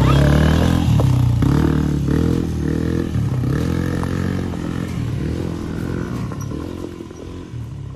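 An engine running, its pitch rising and falling over and over, slowly growing quieter.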